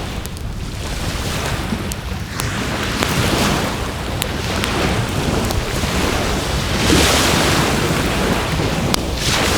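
Waves washing onto the shore, swelling about seven seconds in and again near the end, with wind rumbling on the microphone. A wood fire crackles over it with scattered sharp pops.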